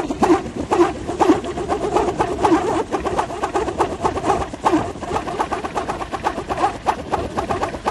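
Balinese pindekan, a wooden wind propeller, spinning in the wind and giving a fast, pulsing whirr with a hum in it.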